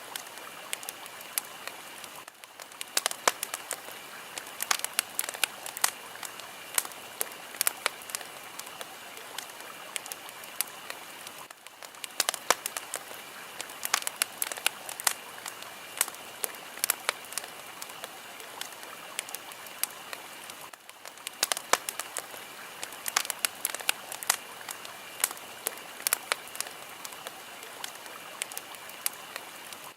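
Fire crackling: a steady hiss with frequent sharp pops and snaps, which briefly dip about every nine seconds.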